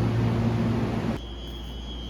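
A vehicle running, a steady rushing noise under a low hum, cuts off abruptly just over a second in. A quieter background with a thin, steady high whine follows.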